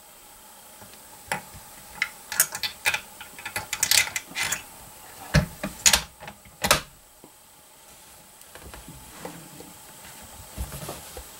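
Irregular metallic clicks and clacks of a bolt-action rifle and bench gear being handled, busiest in the first half and fainter near the end.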